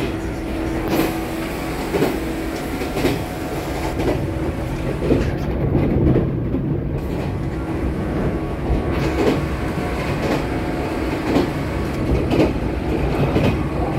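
JNR-era express-type electric train running on the rails, heard from inside the passenger car: a steady rumble of wheels and running gear, with wheel clacks over rail joints about once a second.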